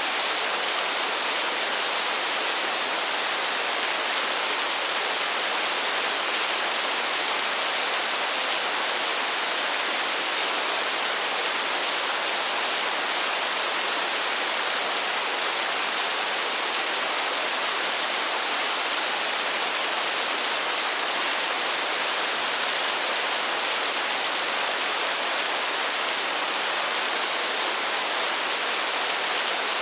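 Steady rush of falling water, an even, unbroken hiss with no single drops or changes standing out.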